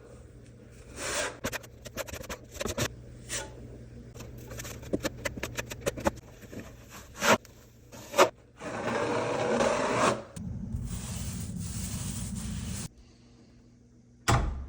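Drywall repair work: tools scraping and clicking against the wall, with a louder rushing noise for about a second and a half past the middle, then a steady noise for a couple of seconds, and a sharp knock near the end.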